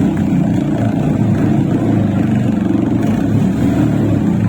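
Motorcycle engine running steadily with a low, pulsing rumble.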